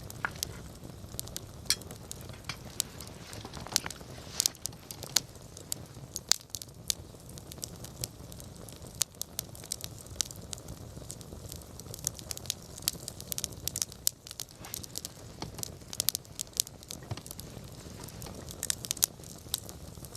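Wood campfire burning, with frequent irregular crackles and sharp pops over a low steady rush of flame.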